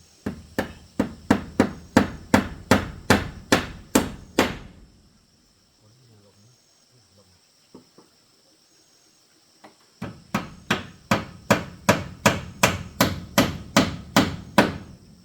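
Hammer blows struck at an even pace of about three a second, in two runs: about a dozen at the start, then a quiet pause of some five seconds, then about fifteen more.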